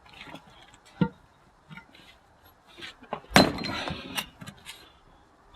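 Axe splitting firewood: a light knock about a second in, then a hard axe strike a little past the middle, the loudest sound, followed by about a second of clattering wood.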